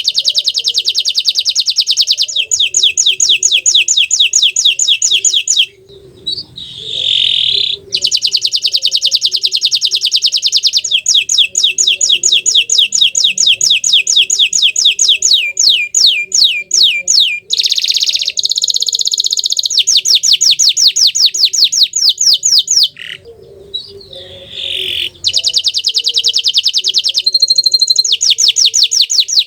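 Bottle-green canary singing: long, loud runs of fast, rapidly repeated trilled notes with some gliding notes between them, broken by short pauses about a fifth of the way in and again past the three-quarter mark.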